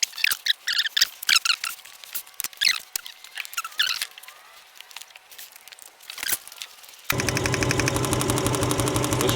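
Irregular short high-pitched squeaks and clicks for about seven seconds. Then, abruptly, the Subaru Impreza's freshly swapped flat-four engine is heard running steadily, with a fast regular ticking over it.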